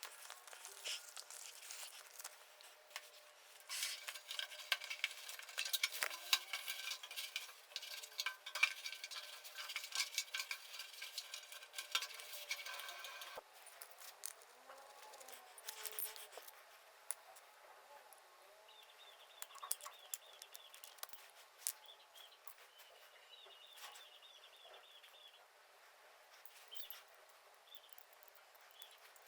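Quiet workshop handling sounds: scattered clicks, taps and light metallic clinks of tools and parts. The clicking gets denser and louder for several seconds near the start, then thins out.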